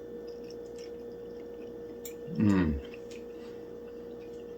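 Steady electrical hum with faint ticks, a sharp click about two seconds in, and just after it a short vocal sound from a man, falling in pitch.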